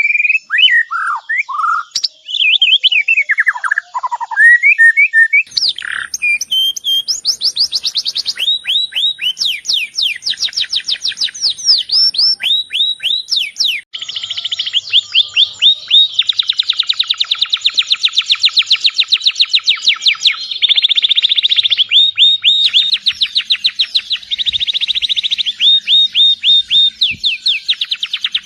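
A bird chirping: varied slurred whistles at first, then long, fast trains of short, high downward-sliding chirps repeated many times a second, with a brief pause about halfway through.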